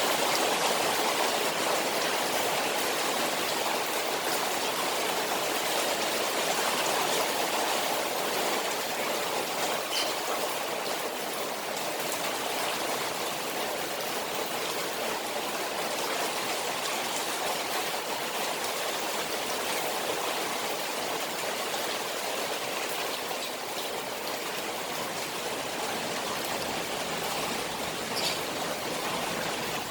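Rain falling on a koi pond, with running, trickling water: a steady, unbroken wash of water noise with a few faint drips.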